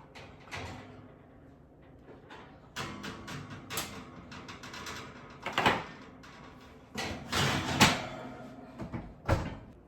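Kitchen clatter: a string of knocks, clunks and rattles as things are handled and set down, with two louder clunks about halfway and three-quarters of the way through.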